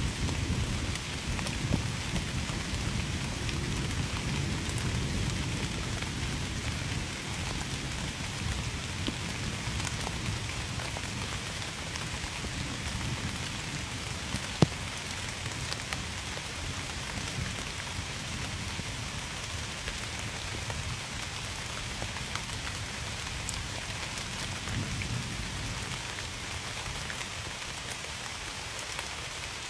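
Steady heavy rain falling and pattering on surfaces, with a low thunder rumble that is strongest at the start and fades out over the first half. A single sharp tap stands out about halfway through.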